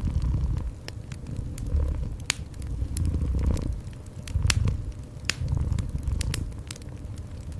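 Wood fire crackling with scattered sharp pops, over a cat's low purring that swells and fades about every second and a half.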